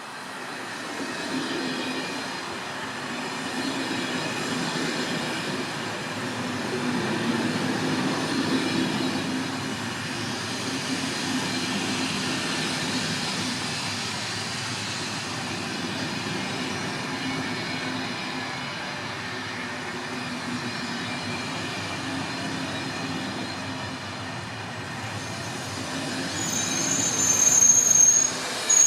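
A train running through the station, a steady rumble and rush of wheels on rail, with a high-pitched wheel squeal near the end as the sound peaks.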